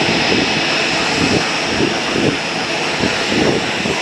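Jet airliner engines running, a steady rushing noise with a high whine.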